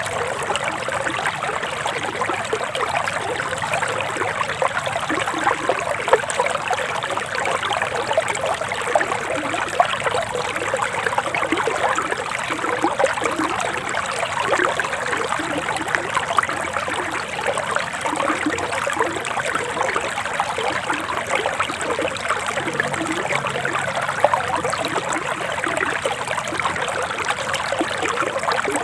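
A forest river flowing and trickling steadily: an even, continuous splashing with many small gurgles and no pauses.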